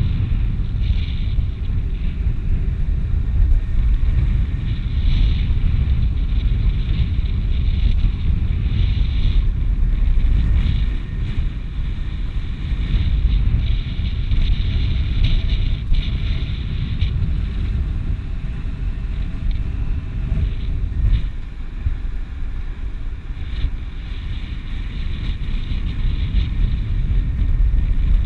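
Strong slope wind buffeting the microphone: a continuous low rumble that swells and eases in gusts, with a hiss on top.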